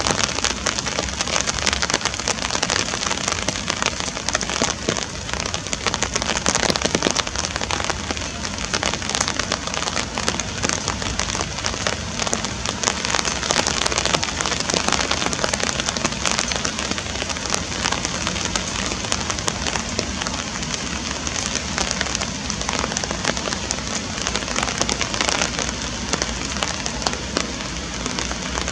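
Steady rain falling on pond water: a dense, even patter of drops.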